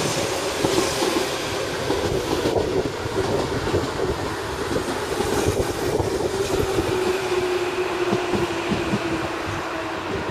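Electric commuter train running by close below, its wheels clacking rapidly over the rails. A steady whine slowly drops in pitch throughout.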